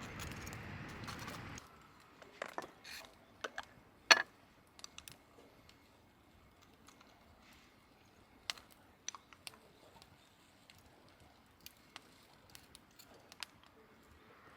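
A steady hiss that cuts off abruptly about one and a half seconds in, then scattered light clicks and taps from handling food and utensils, the sharpest about four seconds in.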